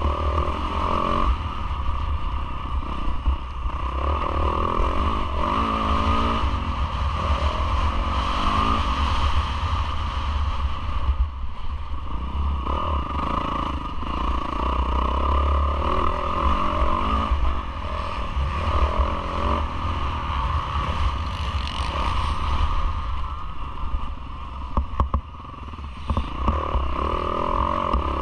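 Yamaha YZ450F four-stroke single-cylinder motocross engine revving up and falling back again and again as the bike is ridden hard round the track, under heavy wind rumble on the on-board camera. The engine comes briefly off the throttle about three-quarters of the way through.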